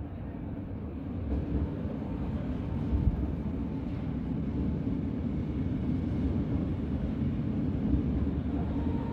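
Red S-Bahn electric multiple unit rolling slowly along the platform as it pulls in, with a steady rumble of wheels on the rails. Near the end a whine of several tones sets in as it slows toward its stop.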